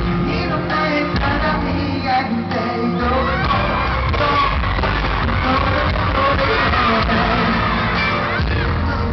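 Live pop music with singing, amplified in a large hall, with a crowd screaming and cheering over it.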